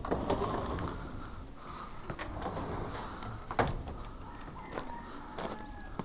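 Scattered knocks and shuffling in a pigeon loft as someone moves between the sections, with the loudest knock about three and a half seconds in.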